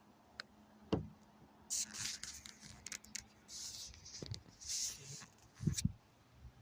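Kayak paddle strokes in water: soft splashing swells about every second and a half, with a few light knocks of the paddle or hull.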